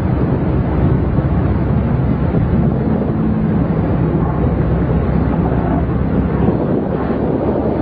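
Steady low rumble of a moving motor vehicle, with wind buffeting the microphone.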